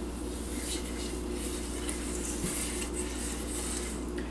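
Grapeseed oil heating in a frying pan, a faint irregular sizzle and crackle over a steady low hum.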